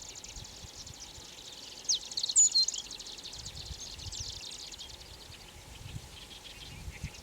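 Ochre-rumped bunting singing one short phrase about two seconds in: a quick falling note followed by a few high notes. A steady, rapid high ticking runs underneath.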